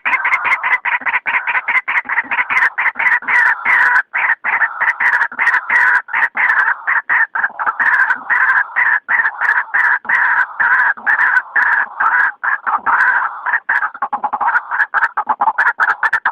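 White-breasted waterhen calling: a loud, fast run of harsh repeated notes, several a second, going on with only brief breaks.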